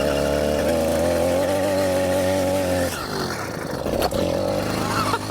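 Small 80cc two-stroke engine on a motorised mountain bike running hard under throttle at a steady high pitch, then easing off about three seconds in and running on more quietly. A sharp knock comes about a second after it eases off.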